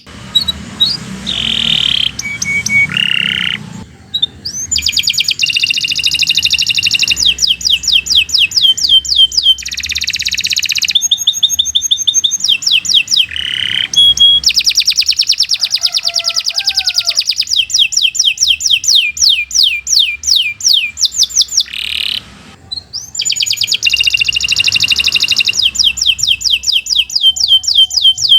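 Domestic canary singing a long, fast song of rapid trills and rolls, strings of quickly repeated high notes that change from phrase to phrase, with brief breaks about four seconds in and near the end.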